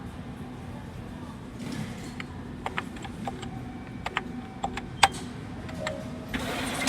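Seven Bank ATM being operated: a scatter of short sharp clicks and brief beeps from key presses over a steady low hum. A louder rushing noise starts near the end.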